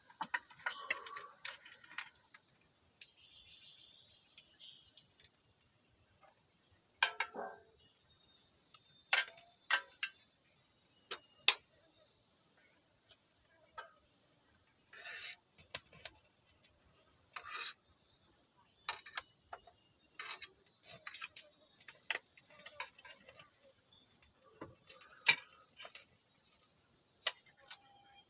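Forest insects keep up a steady high-pitched trill, broken by irregular sharp clicks and knocks close by, a dozen or more scattered through the stretch.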